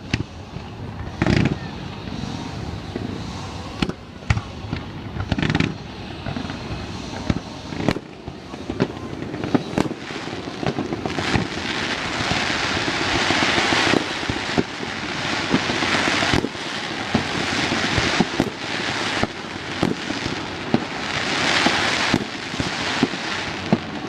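Aerial fireworks going off: sharp bangs of bursting shells, then from about ten seconds in a dense crackling that swells and fades several times, with bangs still among it.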